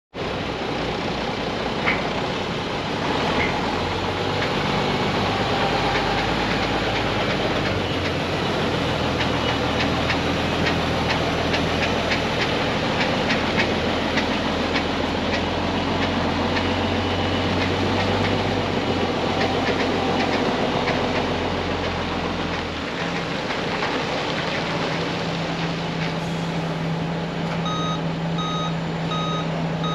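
Mack AMI diesel engine of a 2006 Mack CV713 roll-off truck running steadily, its low note shifting about three-quarters of the way through. Near the end a truck reversing alarm starts beeping at a steady pace.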